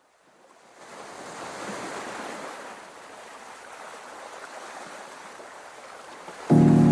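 A steady rushing noise, like surf or wind, fades in over the first second and holds. Music starts suddenly near the end.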